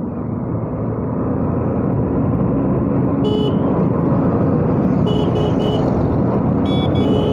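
Motorcycle riding along a road, with steady engine, wind and road noise that grows a little louder in the first two seconds. Short vehicle-horn honks cut through at about three seconds, three quick ones around five seconds, and more near the end.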